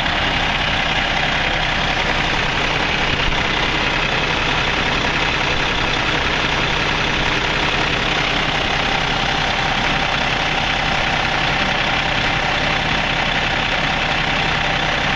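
2012 Kenworth semi truck's diesel engine idling steadily up close.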